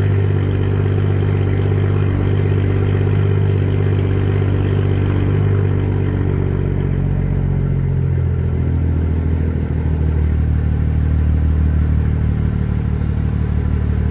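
BMW M440i's B58 turbocharged straight-six idling after a cold start, with a steady exhaust drone. About eight seconds in, the idle drops a little and the tone deepens as the raised cold-start idle begins to settle.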